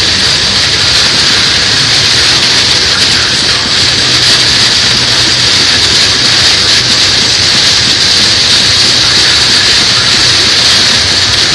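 Torrential rain beating steadily on a moving car's roof and windscreen, heard from inside the cabin, over a low steady hum from the car's engine and tyres on the wet road.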